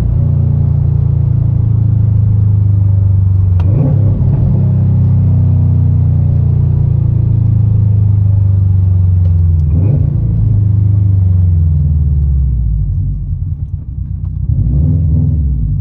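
Subaru WRX STI's turbocharged 2.5-litre flat-four running through a muffler-delete, non-resonated cat-back exhaust, accelerating through the gears. The note climbs in pitch, breaks at a gear change about four seconds in and again about ten seconds in, then falls away briefly near the end as the throttle is lifted before coming back on.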